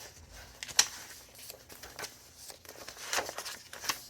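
Thick paper pages of a chunky handmade junk journal being turned, rustling and crinkling, with a sharp paper snap just under a second in and another cluster of crackles near the end.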